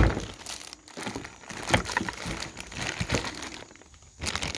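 Packaging being handled during an unboxing: plastic wrapping crinkling and rustling, with scattered clicks and knocks, the loudest right at the start, and a brief lull near the end.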